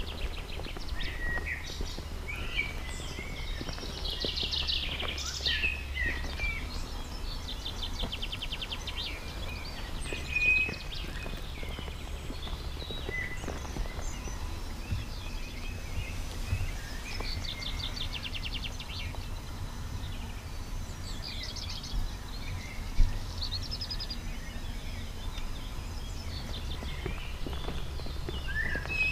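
Songbirds singing, several fast repeated trills and short chirps, over a steady low rumble, with one sharp knock about three quarters of the way through.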